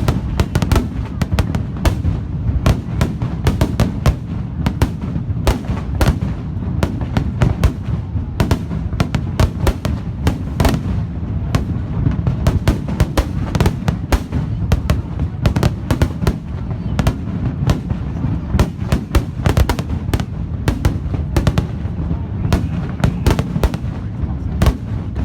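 Fireworks display: a dense, irregular string of sharp bangs and crackles, several a second, over a continuous low rumble of shell bursts.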